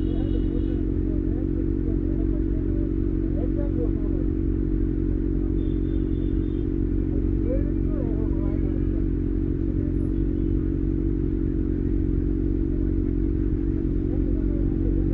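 Kawasaki ZX-6R's inline-four engine running at a steady, even speed with no revving.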